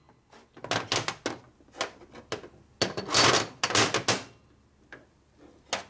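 Irregular knocks and clinks of metal engine parts being handled on a workbench, some in quick clusters, with a longer scraping clatter about three seconds in: a flywheel shaft being bumped while the flywheels are assembled.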